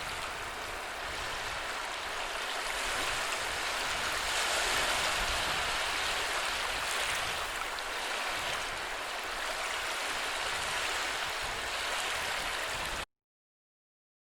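Sea waves washing on a shore: a steady rushing of water with slow, gentle swells in loudness, cutting off abruptly near the end.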